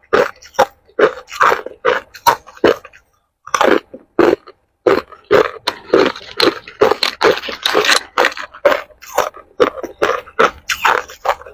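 Ice being bitten and chewed close to the microphone: a fast run of sharp, crackling crunches, a few each second, with a couple of short pauses.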